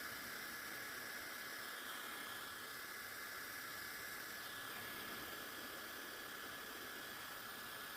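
Dyson-style replica hair dryer running steadily: a hiss of rushing air with a thin, steady high whine from its motor.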